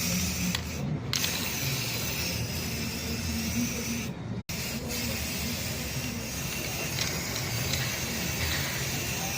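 Spray paint hissing steadily as it is sprayed, cutting out for an instant about four and a half seconds in.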